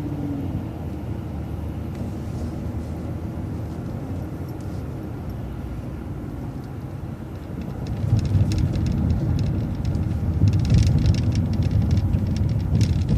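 City transit bus running along the road, heard from inside: a steady low engine and road rumble that grows louder about eight seconds in, with rattling clicks.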